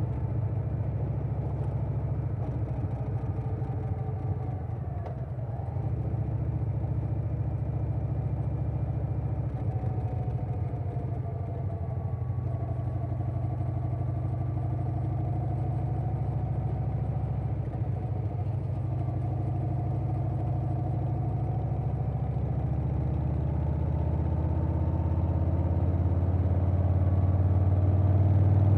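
Harley-Davidson Softail Standard's Milwaukee-Eight V-twin running at cruising speed through a Vance & Hines Big Radius 2-into-2 exhaust, with wind noise. The engine note dips and rises gently, then grows louder and climbs in pitch near the end as the bike accelerates.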